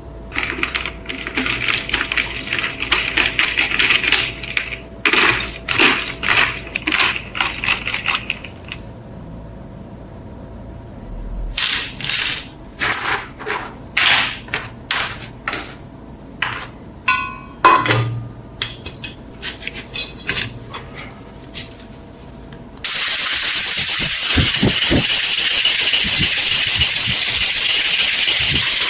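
Rough rubbing and scraping strokes, then a run of separate scrapes and knocks with a brief ringing tone. About two-thirds of the way in, a power sander starts abruptly and runs steadily with a loud hiss.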